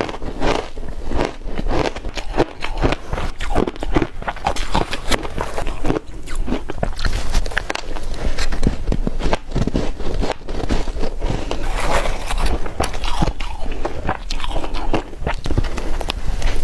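Ice being bitten and chewed close to the microphone: a dense, continuous run of crisp crunches.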